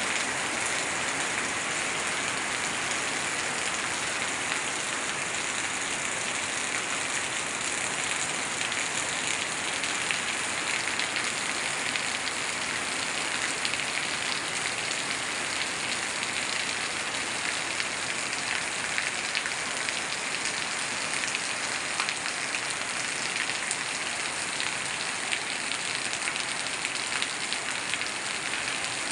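Heavy rain falling steadily on garden plants and wet concrete, a constant hiss of countless drop impacts, with water pouring off a roof edge and splashing onto the pavement.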